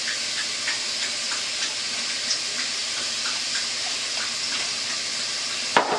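Beef and onions sizzling steadily as they brown in a steel pot, with many small crackling pops. A short sharp knock near the end.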